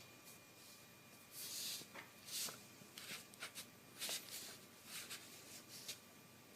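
Faint, irregular rustling and scuffing sounds: about a dozen short soft scrapes over a low hiss.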